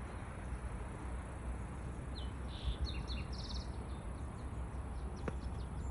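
A songbird chirps a handful of short high notes and a quick trill, over a steady low rumble. A single faint click comes near the end.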